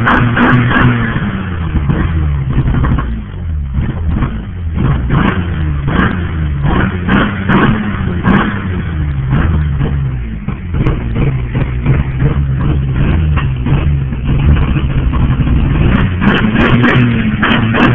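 Nissan VQ30DE 3.0-litre V6 engine revved again and again, its pitch rising and falling with each blip of the throttle.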